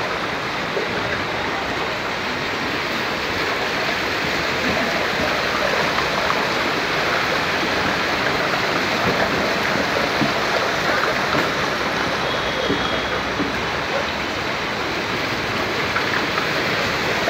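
Passenger train coaches rolling slowly through water lying over the track, a steady rushing, splashing noise of water churned up by the wheels.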